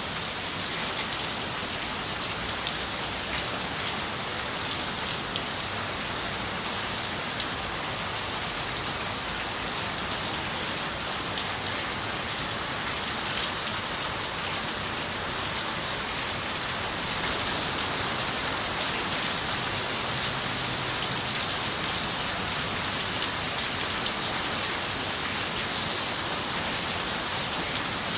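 Steady rain falling, with scattered drops ticking against a window pane; it gets a little heavier about two-thirds of the way through.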